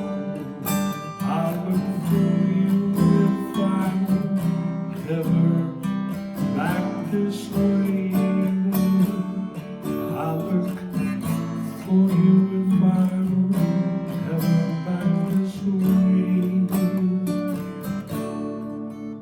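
Acoustic guitar strumming chords in a steady rhythm, an instrumental passage of a folk song with no singing, easing off slightly near the end.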